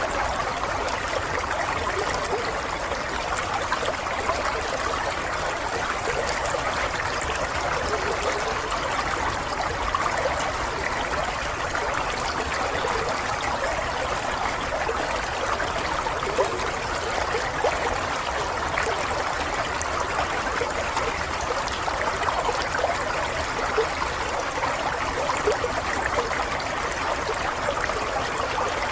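Running water flowing steadily, an even rushing sound with no pauses or changes.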